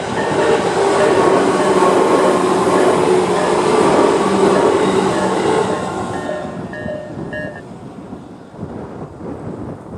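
Tobu 10030 series electric train passing over a level crossing, its running noise loud for about the first six seconds and then fading as it moves away. Under it the crossing's electronic warning bell repeats at a slow tempo, the Tobu-type crossing sound, and stops about seven and a half seconds in.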